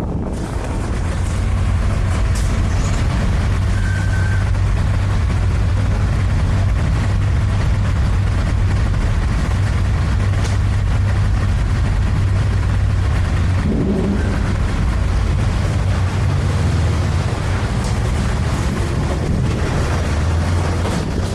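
A vehicle engine running steadily, with a low hum and wind noise over it; the engine note shifts slightly about two-thirds of the way through.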